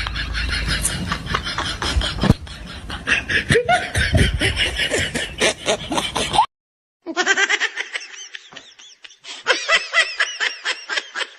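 A person laughing in quick repeated bursts. The sound drops out completely for about half a second around six and a half seconds in, then the laughter resumes.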